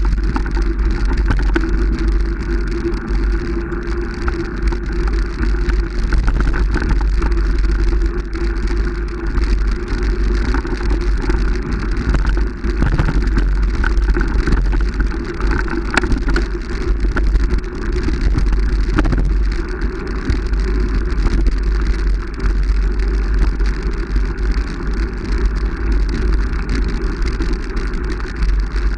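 A vehicle running steadily, with a heavy low wind rumble on the microphone and scattered crackles throughout.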